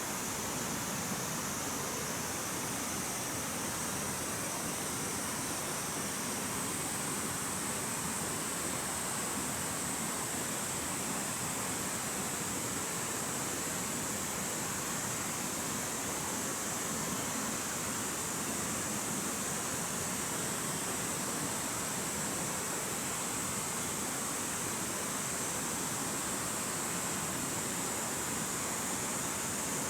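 Steady outdoor rushing noise, like flowing water, with a thin high hiss running over it and no distinct events.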